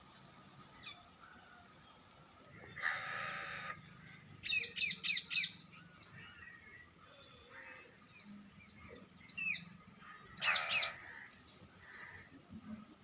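Birds calling: a scratchy call about three seconds in and another near eleven seconds, a quick run of about five sharp sweeping chirps between four and five and a half seconds, and scattered single chirps in between.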